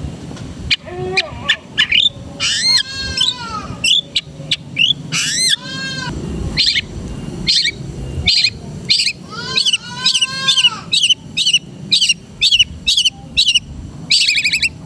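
Long-tailed shrike (cendet) singing a varied song rich in mimicked notes. Arching, harsh calls alternate with quick runs of short, sharp notes, about three a second in the second half.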